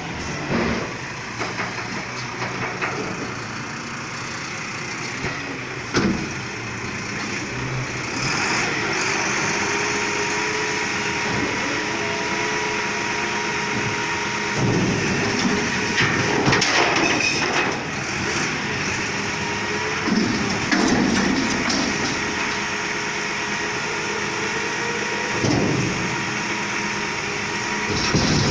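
Front-load garbage truck's diesel engine running, with a faint steady whine for much of the time. Several short, louder bursts of noise stand out, the loudest about 16 to 17 seconds in.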